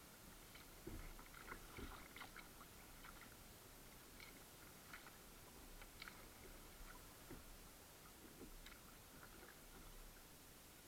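Faint sounds of a kayak on the water: scattered small drips, clicks and soft knocks, with a couple of low thumps about a second and two seconds in.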